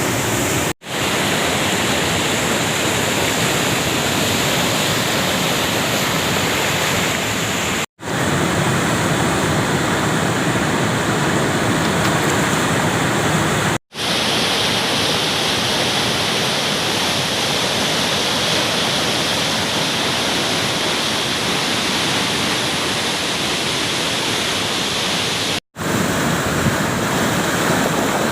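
Waterfall's steady rush of falling water, broken four times by a split-second silence where the recording cuts.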